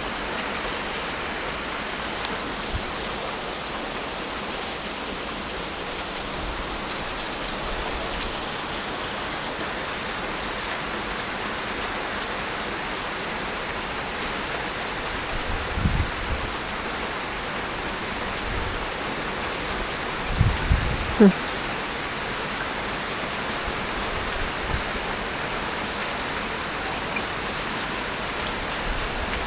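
Hard rain falling steadily, with a few low thumps around the middle.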